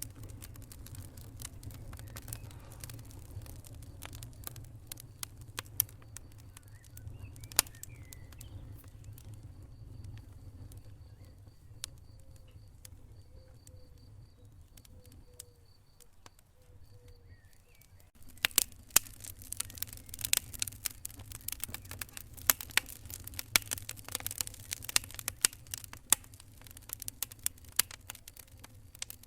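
Wood fire burning in a fireplace: a low steady rumble with scattered sharp crackles and pops, the crackling turning much denser and louder about eighteen seconds in.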